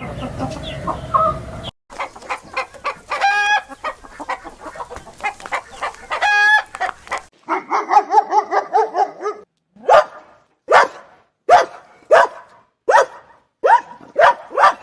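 Chickens clucking in a busy run of short calls. Near the end comes a series of about seven loud, sharp calls, each under a second apart.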